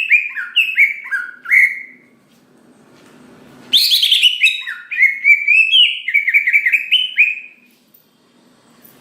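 Cucak ijo (green leafbird) singing in loud, rapid phrases of chirps and whistled notes that slide up and down. One phrase ends about two seconds in, and a second runs from about four to seven and a half seconds in.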